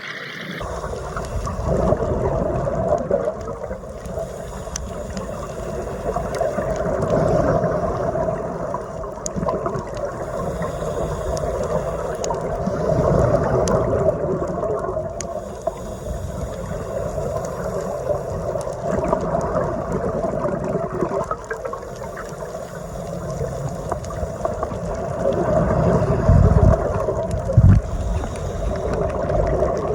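Muffled underwater rushing and gurgling of water heard through a phone's waterproof housing on a drift dive, swelling and easing every few seconds.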